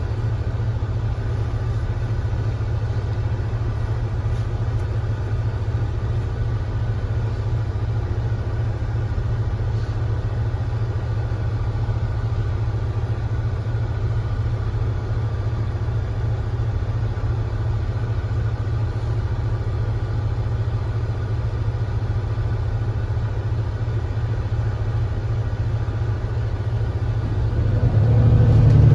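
Engine of a 2025 Granbird Sunshine coach idling with a steady low rumble. Near the end it rises in loudness as the engine takes load and the bus pulls away.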